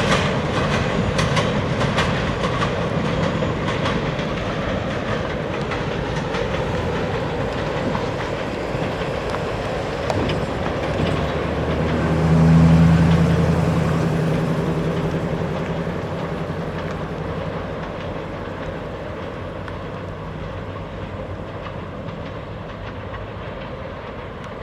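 Freight cars of a diesel-hauled freight train rolling past, wheels clicking over rail joints, the rumble slowly fading as the train moves away. About halfway through, a low droning hum swells for a couple of seconds and then fades.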